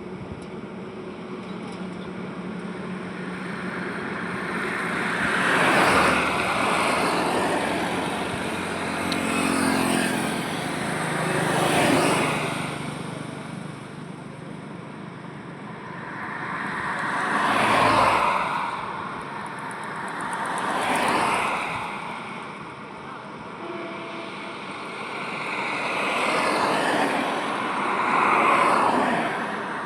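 Highway traffic: vehicles pass one after another, the tyre and engine noise of each swelling and fading as it goes by, about seven passes in all.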